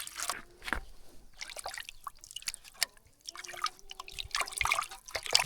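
Water splashing and trickling in irregular bursts as raw pork is washed by hand in a basin.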